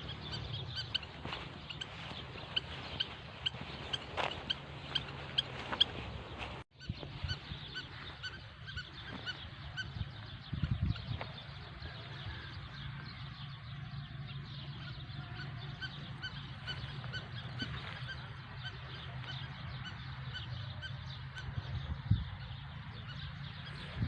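Birds calling in repeated short notes over a steady low hum, with a brief break about a third of the way through.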